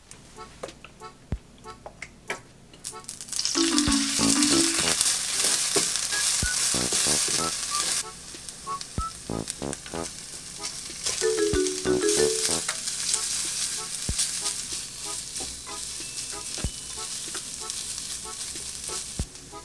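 Seasoned dried squid strips sizzling as they are stir-fried with minced garlic in a hot frying pan and turned with chopsticks. The sizzle starts suddenly about three and a half seconds in, eases after about eight seconds and swells again around twelve seconds, over soft background music.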